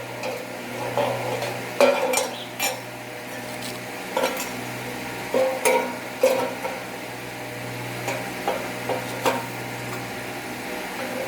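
Metal parts being handled and knocked together: irregular clinks and scrapes, a dozen or so spread unevenly, over a steady low hum.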